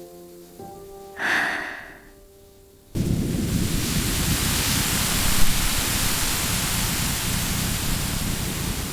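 Heavy rain, a steady dense hiss that starts abruptly about three seconds in, after a few soft piano notes fade out.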